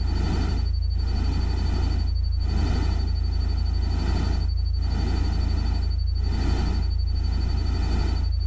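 Synthesized nature-ambience track: a loud steady low rumble under a hiss that swells and briefly drops out about every second and a bit, with a thin steady high tone above it.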